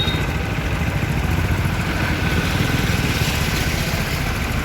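Farmtrac 60 tractor's diesel engine running steadily with a fast, even low throb.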